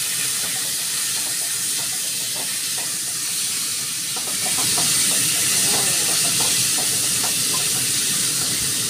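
Raw shrimp and chopped garlic sizzling in hot oil in a wok, a steady hiss that swells slightly about halfway through.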